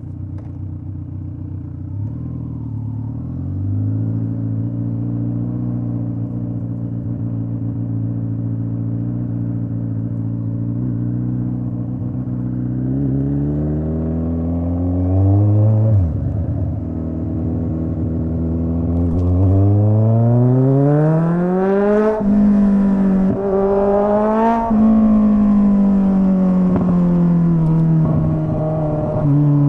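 Straight-piped Kawasaki Z900 inline-four motorcycle engine under way. It runs steadily at first, then revs up, drops in pitch once at a gear change about halfway through, and climbs again to a loud peak before its pitch falls away as the bike slows.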